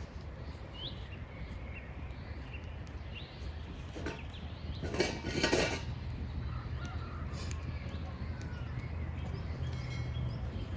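A short metallic clatter of cookware or utensils about five seconds in, with a few lighter knocks around it, over birds chirping and a steady low rumble.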